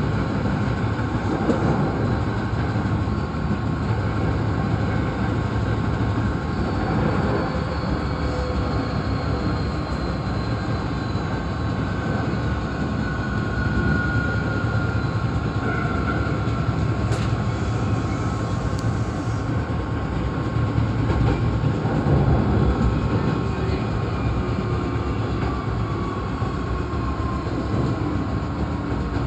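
Hankyu 8300-series electric train running, heard from inside the front car: a steady rumble of wheels on rail with a constant hum and a few faint whines that slide slowly in pitch.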